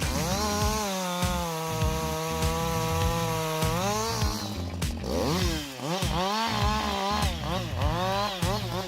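Two-stroke gasoline chainsaw engine at high revs, held steady for a few seconds, then dropping and revving up and down in quick repeated throttle blips over the second half.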